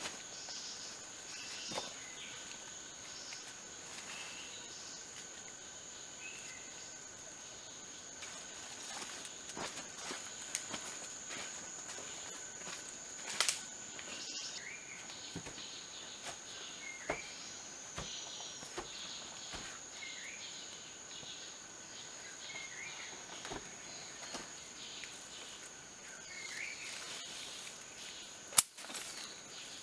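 Forest ambience: insects droning steadily at a high pitch, with scattered sharp clicks and knocks, one loud knock near the end.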